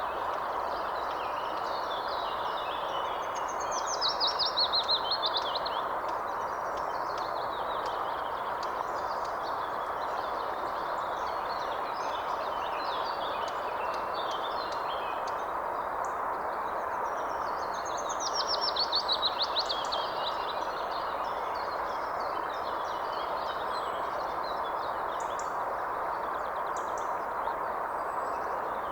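Songbirds singing and chirping over a steady background hiss. Twice a louder, falling trilled phrase stands out, about four seconds in and again near the middle.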